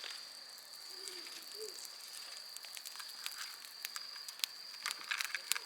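Insects, most likely crickets, keeping up a steady high-pitched trill outdoors, with scattered light clicks and taps, a quick cluster of them near the end.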